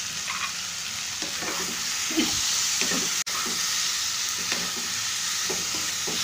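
Tomatoes, onions and spices sizzling in a hot non-stick kadai while a spatula stirs them, with scattered scrapes and knocks of the spatula against the pan. The sound briefly drops out a little past halfway.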